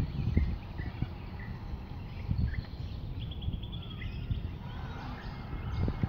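Birds calling: short high chirps about once a second, and a quick rattling trill a little past halfway. Low rumbling background noise underneath.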